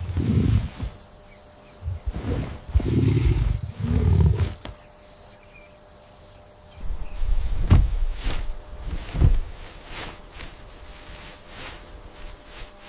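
Low growls from a large animal, in several bursts over the first four seconds and again about halfway through.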